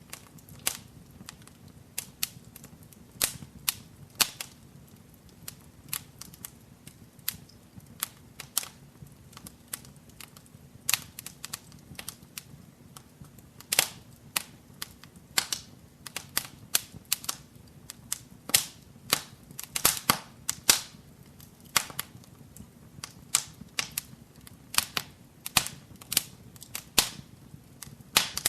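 Wood fire burning in a fireplace, crackling: sharp irregular pops and snaps, several a second at times, over a low steady hiss of the flames.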